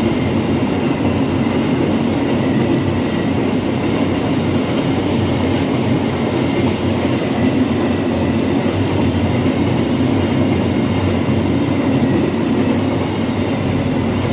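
Freight train of fuel tank wagons passing close by: a loud, steady noise of wheels running on the rails.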